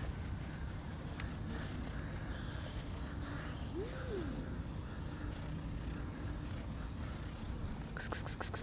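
Outdoor ambience: a steady low rumble with a small bird giving short high chirps every second or so, and a quick rapid rustle near the end.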